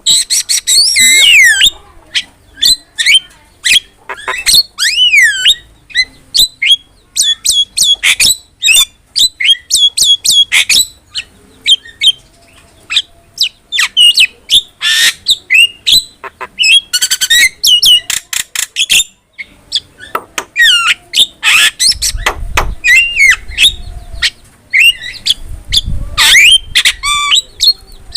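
Javan myna (jalak kebo) singing at length: a rapid, varied stream of whistles, rising and falling glides, harsh squawks and clicks with hardly a pause.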